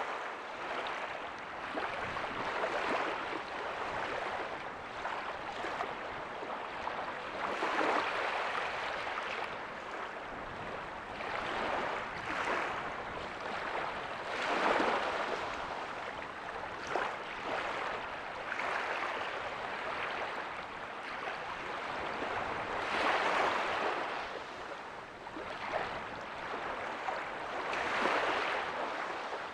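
Ocean waves breaking softly on a beach: a continuous wash of surf that swells and eases every few seconds as each wave comes in.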